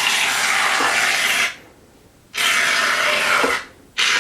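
Aerosol can of foam shaving cream hissing as foam is sprayed out, in spurts of about a second or more with short breaks, three times.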